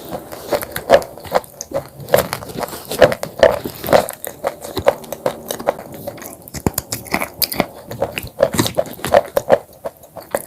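Close-miked biting and chewing of broken black chips: a rapid, irregular series of sharp crunches.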